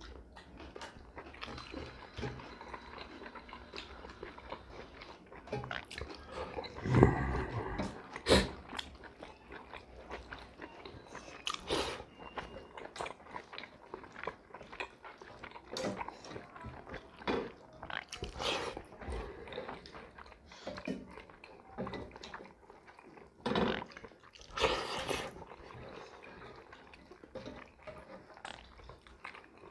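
Close-miked chewing and wet mouth sounds of people eating fish curry and rice by hand, with irregular smacks and crunches. A few louder clicks stand out about seven and eight seconds in and again around twenty-four seconds.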